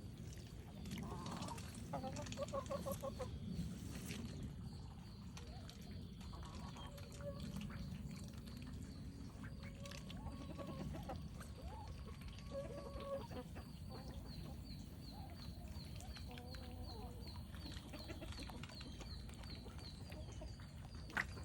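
Chickens clucking softly, with short pitched calls scattered every second or two.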